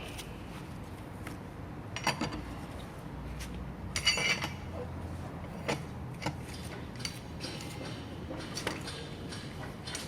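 Scattered metallic clinks and knocks of tools and steel wheel bolts being handled while a car wheel is taken off. The loudest is a ringing clink about four seconds in.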